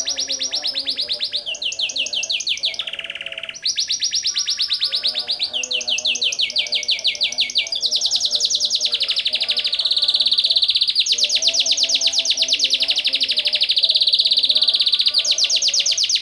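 Taiwan canary singing a long, unbroken song of rapid trills. The phrases of fast repeated notes shift in pitch every second or two, and a longer, louder roll runs through the second half.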